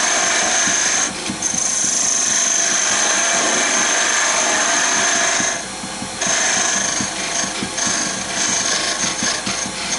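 Wood lathe turning a spinning hardwood blank while a hand-held turning tool cuts into it, making a steady high-pitched cutting hiss. The cut breaks off briefly about a second in and again a little past the middle. In the last few seconds it becomes a run of short, repeated cuts as the tool is touched on and off the wood.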